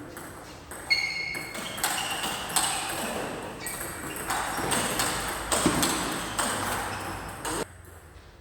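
Rally sounds of a racket-sport game: a run of sharp hits with short high squeaks or pings among them. The sound stops suddenly near the end.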